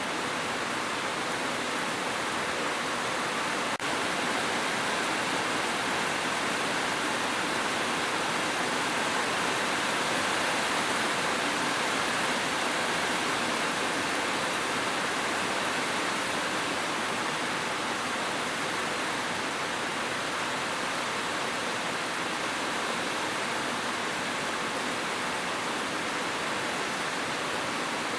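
Steady, dense rainfall making an even hiss with no single drops standing out, and one faint click about four seconds in.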